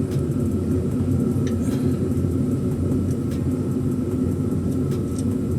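Steady low rumbling hum with a thin high whine over it, and a few faint clicks.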